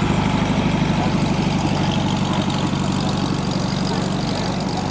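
A car's engine idling steadily with a low, even pulse.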